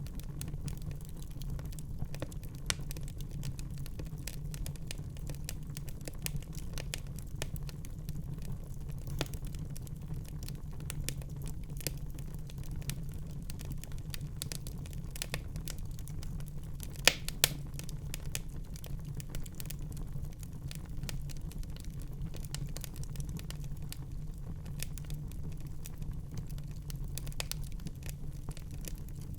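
Wood fire crackling in a fireplace: a steady low rumble of flames with irregular small pops and snaps, and a couple of louder pops about two-thirds of the way through.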